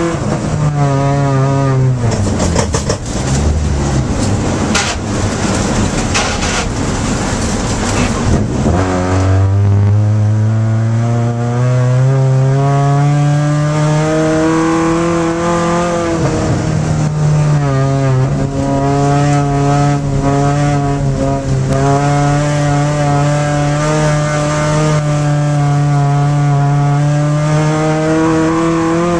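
Race car's engine heard from inside the cabin, driven hard on ice. The revs fall about a second in, then for several seconds the engine is buried under loud rough noise and scattered knocks. The pitch then climbs steadily under acceleration, dips briefly as for a gear change, and holds high and steady until the revs drop near the end.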